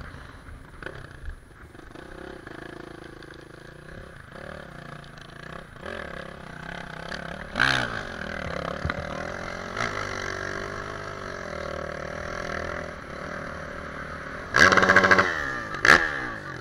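Motorcycle engines running and revving. A short loud blip of revs comes about halfway through, and a louder burst of revs near the end falls away again.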